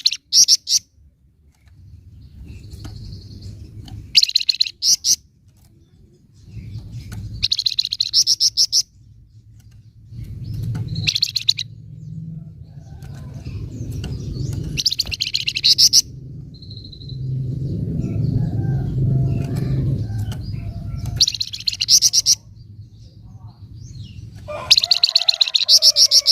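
Flamboyan bird giving its 'nyecret' chatter: short, loud bursts of very fast high notes, repeated every few seconds. A low background rumble runs underneath.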